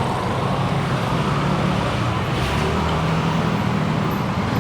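Busy street traffic dominated by motorcycle engines running close by, a steady engine hum with no single event standing out.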